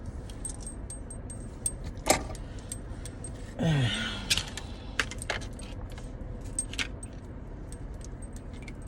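Small hard objects clicking and clinking as items are handled, over a steady low hum. About three and a half seconds in, a short, louder sound slides down in pitch.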